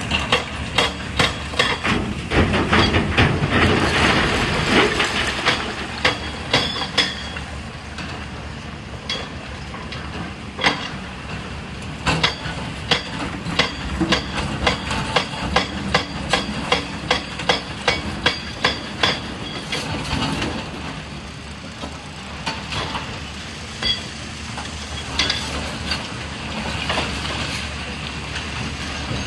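Excavator-mounted hydraulic breaker (rock hammer) hammering, a fast run of sharp metallic blows over the steady hum of the excavator's engine. The blows are densest and loudest in the first several seconds, then carry on at about two strong blows a second with short lulls.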